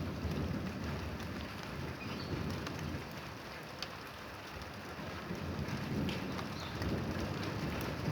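Steady rain falling, with a low rumble of thunder underneath that swells near the start and again toward the end.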